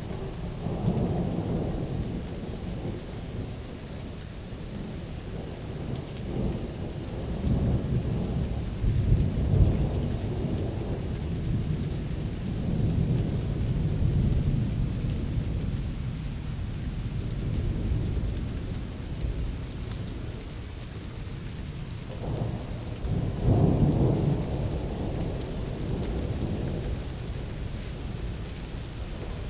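Thunderstorm: heavy rain hissing steadily while thunder rumbles and swells again and again, with the loudest peals about a second in, around nine to ten seconds in, and near twenty-four seconds in.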